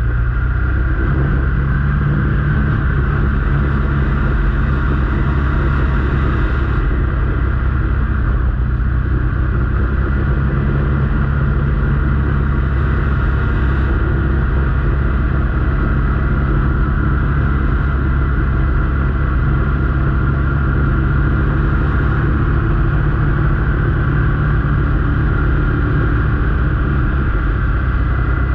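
Motor vehicle engine running steadily under way, with a continuous low rumble and a steady whine-like tone and no pauses.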